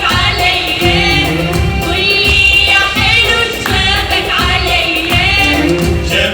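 Live Iraqi folk song: singing with a wavering vibrato over percussion and accompaniment.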